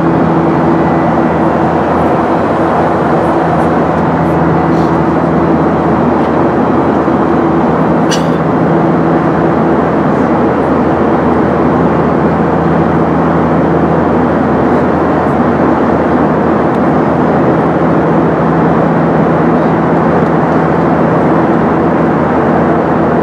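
Steady airliner cabin noise inside a Boeing 737-900ER: an even rush of engine and airflow noise with a constant low hum, and one short click about eight seconds in.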